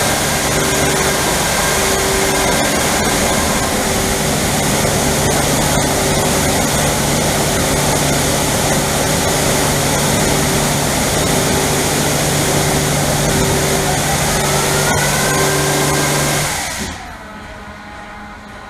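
Touchless automatic car wash spraying high-pressure water over a car, a loud steady rush with a machine hum and a motor whine that glides in pitch. The spraying cuts off about 17 seconds in.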